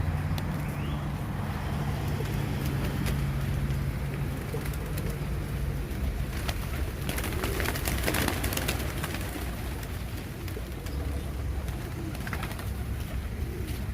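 A flock of pigeons cooing over a steady low rumble, with scattered light clicks.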